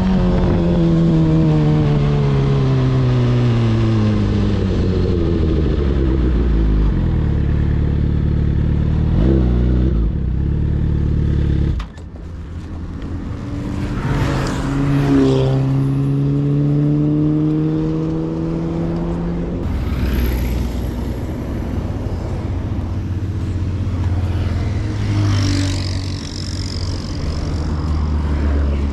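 Sport motorcycle engine, heard from the rider's helmet: its pitch falls steadily as the bike slows for the first several seconds. About twelve seconds in the sound drops off suddenly, then the engine revs up again and runs steadily, with wind noise underneath.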